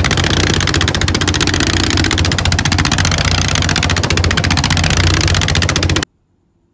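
Boat engine running loudly and steadily close by, with a rapid, even pulse; it cuts off abruptly about six seconds in.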